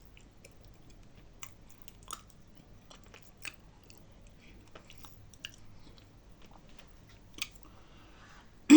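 Dry nzu clay being chewed with the mouth close to the microphone: scattered crisp crunches a second or so apart over quiet chewing. At the very end comes a loud voiced sound, falling in pitch.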